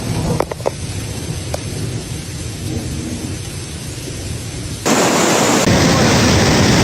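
Storm sound: a low rumble under rain. About five seconds in, it changes abruptly to a louder, steady rushing noise.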